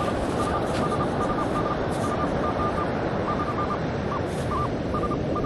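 Metal detector giving short, irregular beeps at one mid pitch as it sweeps over a target it reads as a nickel. A steady wind and surf hiss runs underneath.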